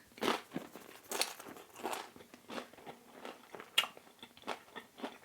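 A person biting and chewing crispy thin-crust seaweed pizza: irregular crunches, the loudest about a second in and again near four seconds in.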